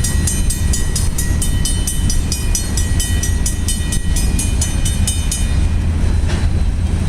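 Railroad grade-crossing bell ringing rapidly, about three to four strikes a second, then falling silent about five and a half seconds in as the crossing clears after the freight train has passed; a steady low rumble runs beneath.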